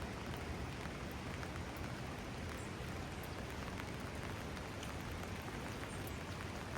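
Steady rain falling, with scattered faint ticks of individual drops striking surfaces.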